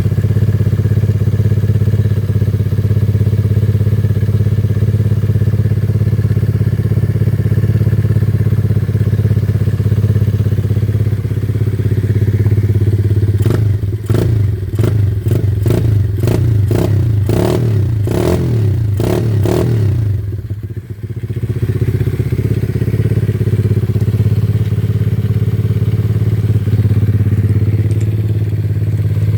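Mini supermoto's newly fitted engine running steadily at idle. From about halfway through it is blipped repeatedly, roughly twice a second for several seconds. It dips briefly, then settles back to a steady idle.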